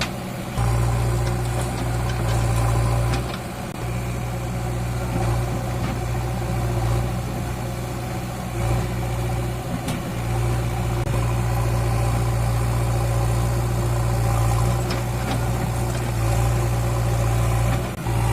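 Tractor diesel engine running steadily with a deep, even hum, dipping briefly in level a few times.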